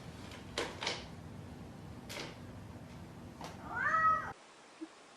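A cat meows once, a short call that rises and then falls, about four seconds in. A few light taps come before it in the first couple of seconds.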